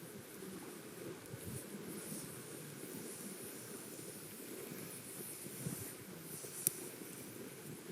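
Wood campfire burning with a steady hiss and one sharp crack near the end.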